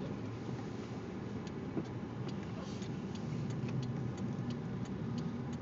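Car running with a steady low rumble. From about a second and a half in comes a series of light clicks, about three a second.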